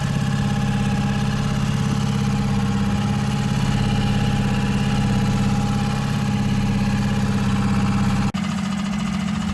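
Boat outboard motor idling steadily, ticking over after a hard start. A sudden brief break comes a little after eight seconds, after which it runs on slightly quieter.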